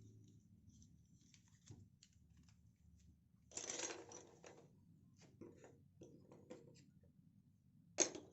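Quiet workshop handling noises: a brief scrape about three and a half seconds in, a few faint ticks, and one sharp click near the end.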